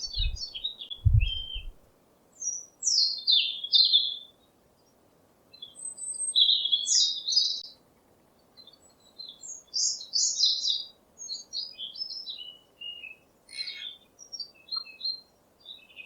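A parrot chirping and squawking in short, high, irregular bursts with brief pauses between them. A few low thumps come in the first two seconds.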